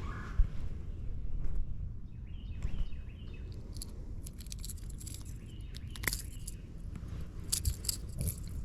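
Birds chirping in short falling calls over a steady low rumble, with scattered light clicks in the second half.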